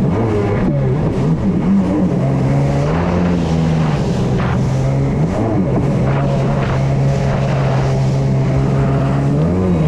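Kawasaki 650 two-stroke twin jet ski engine running under way, its pitch rising and falling several times as the throttle is worked, over the rush of water and wind.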